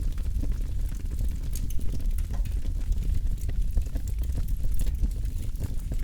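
Campfire burning, with a steady low rumble of flames under many small irregular crackles and pops of burning wood.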